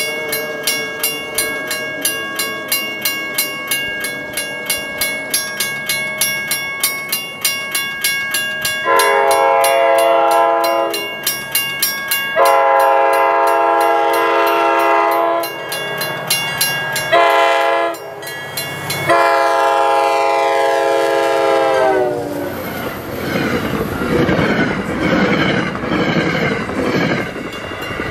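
Grade-crossing bell ringing steadily, then an MBTA EMD GP40MC locomotive's five-chime K5LA horn sounding the crossing signal: long, long, short, long. The horn's pitch drops as the locomotive passes, followed by the loud rush of the train going by at speed and the crossing bell again near the end.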